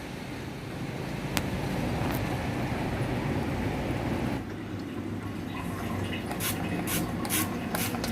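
Rain falling on lotus leaves: a steady wash of rain with a cluster of sharper, louder drops striking the leaves in the last couple of seconds.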